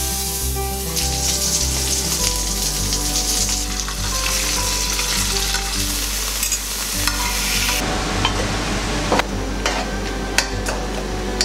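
Vegetables sizzling in hot oil in a frying pan, with light acoustic background music. About eight seconds in the sizzling dies down, and a few sharp clinks, like a spoon against a pot, follow near the end.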